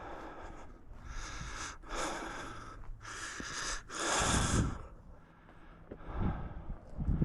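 A man breathing hard through the microphone, four heavy breaths in a row, the last the loudest, then quieter.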